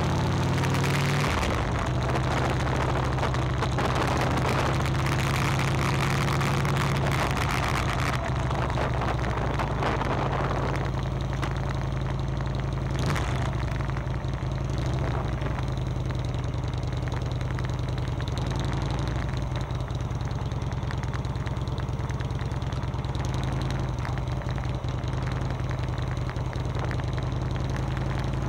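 Motorcycle engine running at a steady pitch, heard through a camera mounted on the bike, with a rushing noise over it that eases after about ten seconds.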